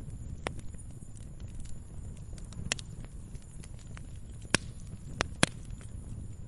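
Wood fire crackling in a fireplace: a low steady rumble of burning with scattered small snaps and three sharper pops near the end.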